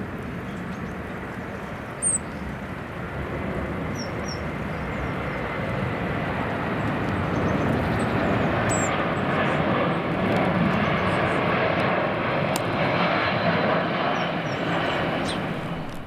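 Boeing C-17A Globemaster III's four Pratt & Whitney F117 turbofan jet engines, a steady roar that builds gradually as the aircraft comes in to land, loudest in the latter half.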